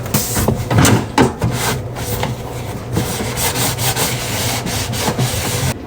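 Scrubbing an air fryer by hand: a run of irregular rubbing strokes.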